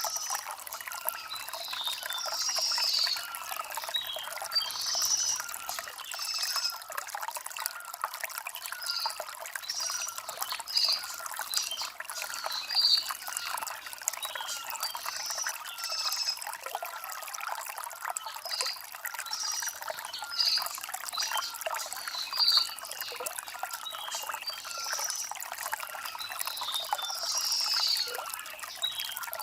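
Shallow stream trickling and gurgling over stones, a steady flow with a lively bubbling texture.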